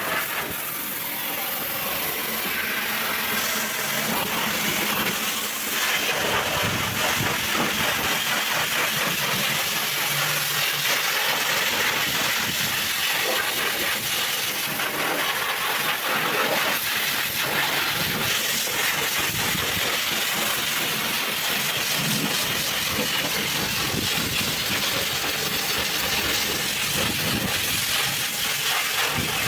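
Pressure washer spraying water in a steady hiss.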